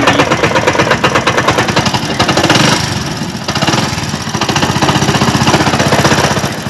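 Hero Passion Pro motorcycle engine running with a loud, rapid, rhythmic knocking clatter. The mechanic traces the noise to a damaged bearing behind a split bush at the clutch housing, not to the crank, piston or connecting rod.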